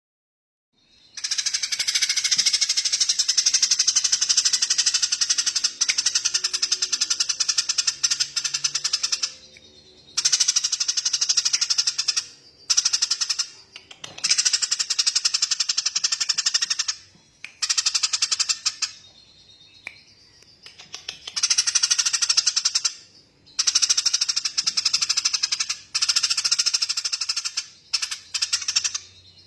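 A small songbird's rapid, high-pitched rattling trill, given in long bouts of several seconds separated by short breaks, starting about a second in.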